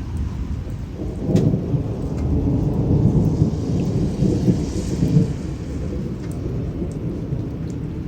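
Rain falling steadily, with scattered sharp drips, under a low rumble of thunder that swells about a second in and fades away after about five seconds.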